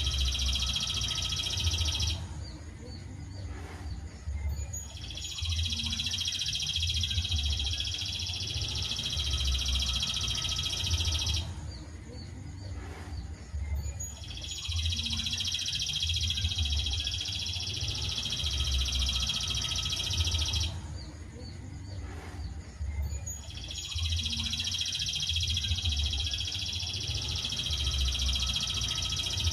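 Songbird master recording of dense, high chirping song. It comes in long stretches of about seven seconds, broken by short pauses of two to three seconds, and the pattern repeats evenly like a loop.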